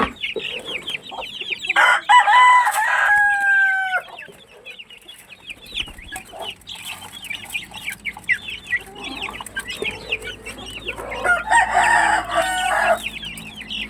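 Backyard chickens clucking and calling nonstop in quick high notes, with a rooster crowing twice over them, once near the start and again near the end.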